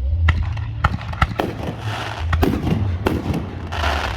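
Fireworks going off: a run of sharp bangs at uneven spacing, with crackling bursts between them, over a steady low rumble.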